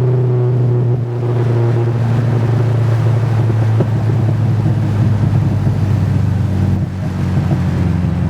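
Turbocharged SR20DET four-cylinder engine of a Nissan 200SX heard from inside the cabin while driving, running steadily with a low hum. The level dips briefly about a second in and again near the end, and the pitch shifts slightly after each dip.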